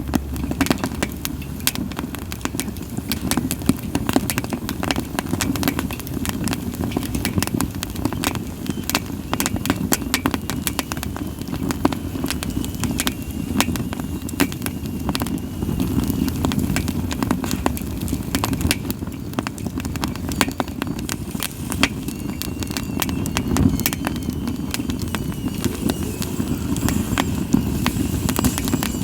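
Split sawtooth oak (kunugi) firewood burning in a campfire: dense, irregular crackling and popping over a low rush of flames. A faint thin hiss from the burning wood comes and goes.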